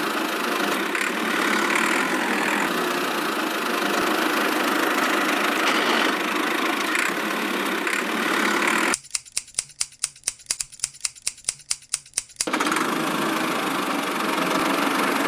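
A motor running steadily with an engine-like sound and little bass. About nine seconds in it breaks off for some three seconds into a run of quick regular ticks, about six a second, then the running sound comes back.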